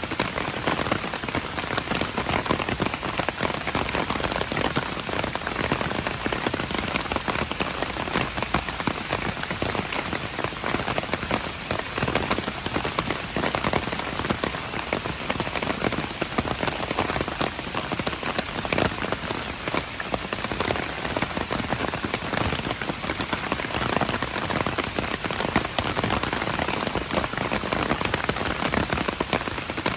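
Steady rain falling, a dense patter of many drops striking surfaces, even in level throughout.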